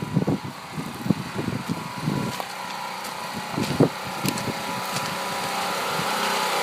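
Small generator engine running steadily, growing slightly louder toward the end, with wind buffeting the microphone in irregular gusts.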